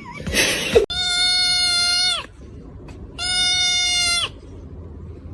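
An animal calling three times: long, even-pitched calls of about a second each, dropping in pitch at the end of each, after a short noisy burst about half a second in.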